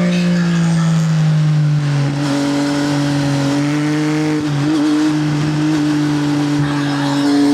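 Triumph Speed Triple's inline three-cylinder engine through an SC Project aftermarket exhaust, pulling at fairly steady revs while riding, its pitch dipping briefly twice, about two and four and a half seconds in.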